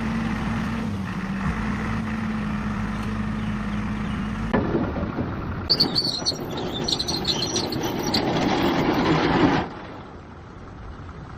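A vehicle engine idling with a steady hum. About four and a half seconds in, the sound switches suddenly to a louder, rougher engine noise with high chirps over it, which drops off sharply near the end.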